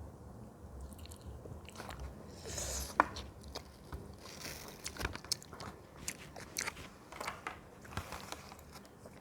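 A person biting and chewing fresh fruit close to the microphone: crunches and wet clicking chews from about two seconds in, the sharpest crunch about three seconds in.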